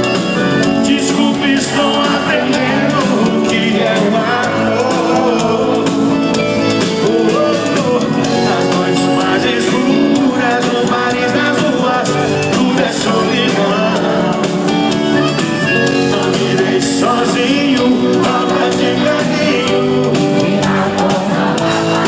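A live band performing a song, with a singer over guitar and a steady drum beat.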